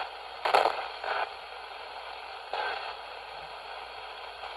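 Ghost box radio sweeping the AM band: a steady static hiss broken by short snatches of station sound about half a second, a second and two and a half seconds in.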